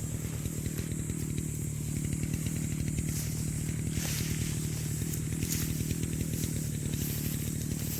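Two-stroke brush cutter engine running at a steady speed while cutting grass.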